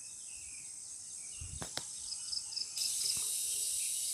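Crickets trilling steadily in the background, a high-pitched chirping that grows louder a little before the middle, with a few faint clicks.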